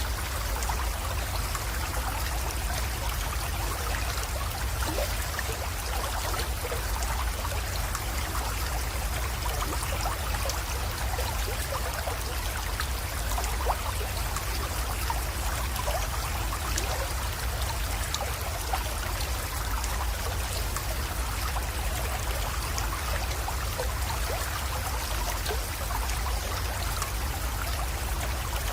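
A small creek's water trickling and flowing steadily, with many small, quick splashes.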